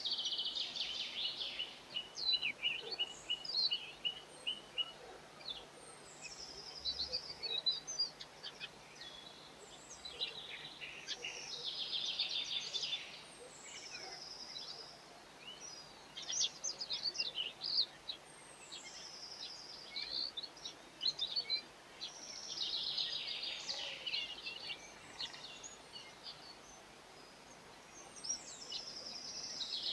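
Garden birds singing and chirping: a longer song phrase comes about every ten seconds, with short chirps and trills in between.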